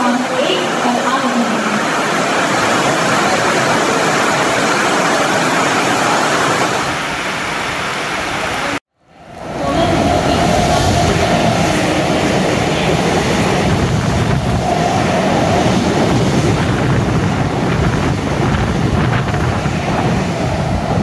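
Heavy rain pouring steadily on the station and tracks as a Mumbai suburban electric local train approaches. The sound cuts out briefly about nine seconds in. After that another electric local runs in close along the platform with a low rumble of wheels on rail.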